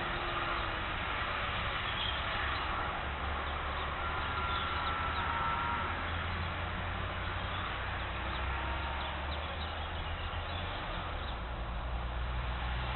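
A bird calls on one steady, thin note for about a second and a half near the middle, over a constant hiss and a low rumble.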